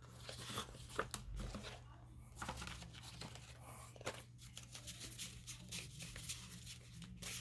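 Paper rustling and crinkling as cut paper pieces are handled and shuffled, with scattered small taps and clicks.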